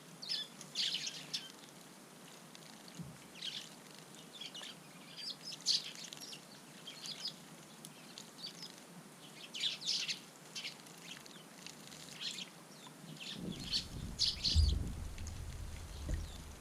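Eurasian tree sparrows chirping in short, scattered calls throughout. A low rumble comes in about 13 seconds in.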